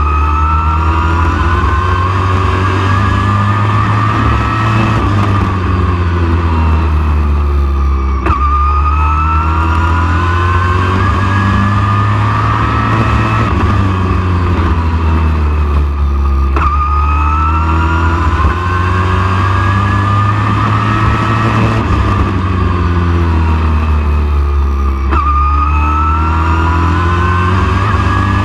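Super truck race engine lapping a short oval. Its pitch climbs steadily for about eight seconds down each straight, then drops sharply as the throttle is lifted for the turn, three times over a constant low drone.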